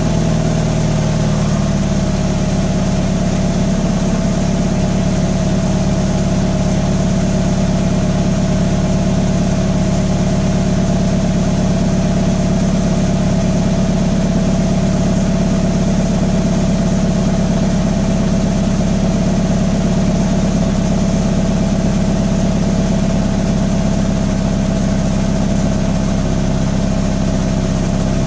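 2015 Subaru BRZ's 2.0-litre flat-four boxer engine idling steadily through the stock exhaust.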